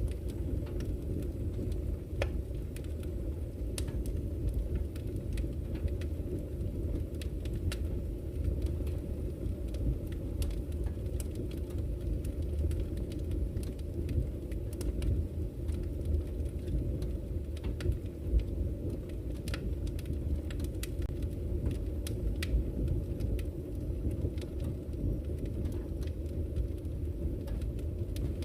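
Campfire crackling, with scattered sharp pops and snaps, over the steady low rush of flowing river water.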